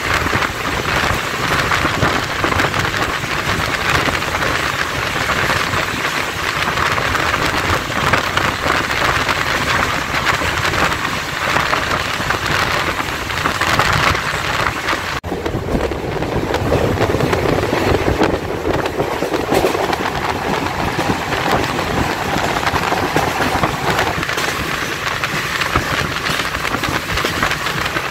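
Electric local train (EMU) running at speed, heard from an open door: a dense, steady rush of wheel-on-rail running noise. The sound briefly drops out about fifteen seconds in and is deeper after that.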